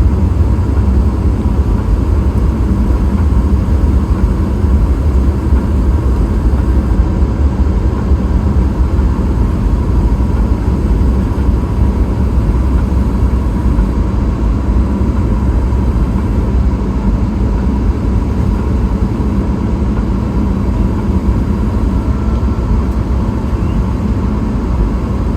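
Steady low rumble of a Boeing 777-300ER heard inside the passenger cabin, its engines and airflow making an unbroken drone with a faint steady whine above it.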